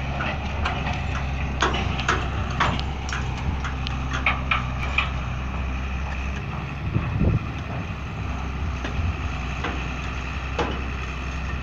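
A heavy machine's engine running steadily, with scattered sharp knocks and clanks during the first half; the engine's note thins out about halfway through.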